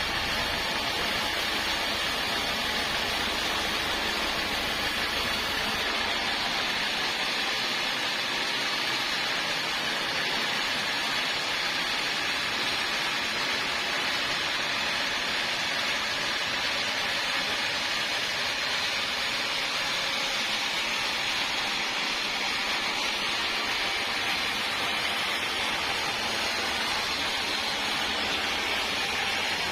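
Sawmill saw running with a steady, even hiss-like noise.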